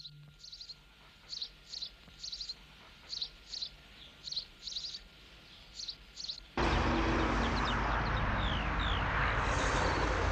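A small bird chirps in short high notes, mostly in pairs, over a quiet background. About six and a half seconds in, the steady rushing noise of a car driving cuts in abruptly and much louder, with a few faint bird chirps still heard through it.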